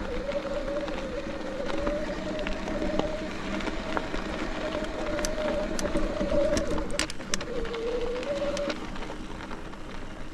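Mountain bike rolling along a dirt trail: steady tyre and wind noise with a wavering high whine that dips briefly near the end and then stops. A few sharp clicks and rattles come a little past halfway.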